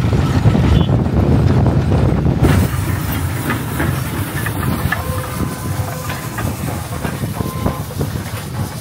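Steam train running past, with steam hissing and wheels clicking over the rail joints. A heavy low rumble fills the first two and a half seconds, then drops away.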